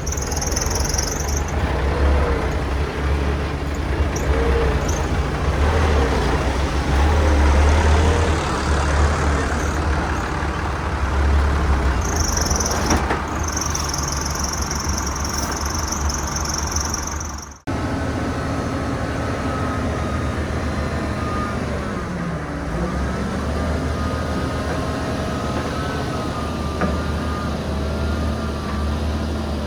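Heavy diesel earthmoving machinery, a bulldozer and dump trucks, running with a deep, steady engine drone. A high hiss comes at the start and again for several seconds in the middle. The sound cuts off sharply about 18 seconds in, then the engine carries on with a whine that dips and rises again.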